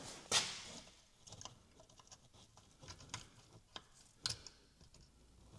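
Faint scattered clicks and light scraping as hands work at the retaining clip on an engine oil cooler line fitting, with sharper clicks just after the start and about four seconds in.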